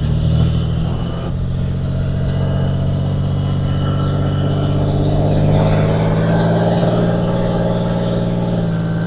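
Porsche 911 Carrera GTS (992.2) flat-six boxer engine running at steady revs, its note holding nearly level with a slight change about a second in.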